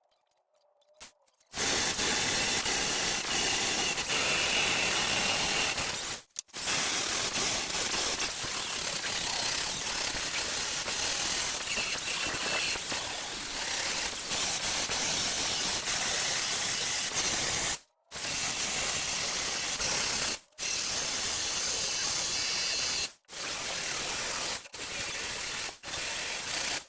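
MIG welder crackling as it welds the steel sill panel, in separate runs with the trigger released between them: a short run, then a long run of about eleven seconds, then several shorter runs of one to three seconds with brief silent breaks.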